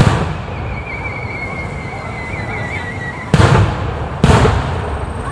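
Aerial firework shells bursting: three loud booms, one right at the start and two close together about three and four seconds in. A thin, high, wavering whistle runs through the first three seconds.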